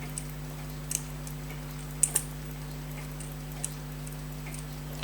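Small, sharp clicks and taps of tiny watch screws and tweezers being handled on a workbench, a few scattered strikes with a close pair about two seconds in, over a steady electrical hum.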